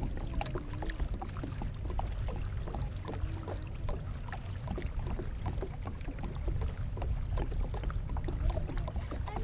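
Irregular small knocks and splashes around a kayak on the water, over a steady low wind rumble on the microphone.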